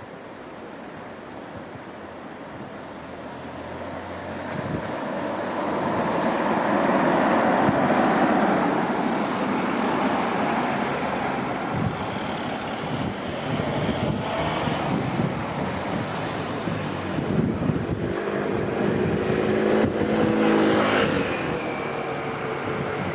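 Electric passenger train running through the station: wheel and rail noise building over the first few seconds to a loud, steady rumble that holds until near the end. A brief high falling squeal sounds about two seconds in.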